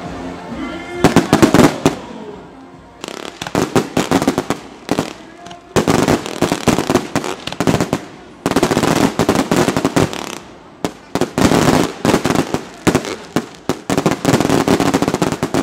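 Aerial fireworks going off: volleys of bangs and crackling, scattered at first, then dense and nearly continuous through the second half.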